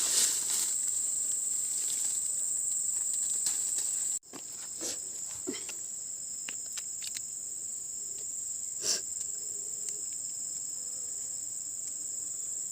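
A steady high-pitched insect chorus droning, with scattered faint knocks and rustles. The drone breaks off for a moment about four seconds in and resumes slightly lower in pitch.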